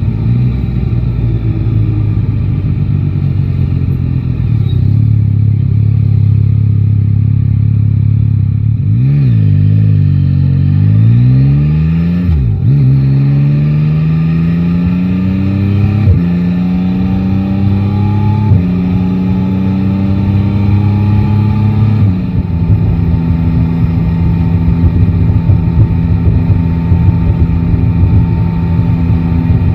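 Yamaha Tracer 9 GT's inline-three engine heard from the rider's seat, cruising steadily, then easing off and picking up again. It then accelerates through several upshifts, its pitch climbing and dropping back about four times, before settling into steady cruising.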